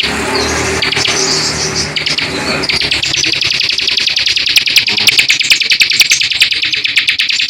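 A small songbird singing a fast chatter of rapidly repeated short notes, many to the second, with a low hum underneath during the first few seconds.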